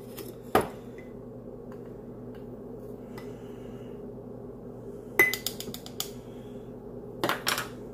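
Metal spoon or scoop clinking and tapping against metal kitchenware while coffee is scooped into an espresso filter basket: a few scattered strikes, a quick run of clicks with a brief ring about five seconds in, and more taps near the end, over a steady low hum.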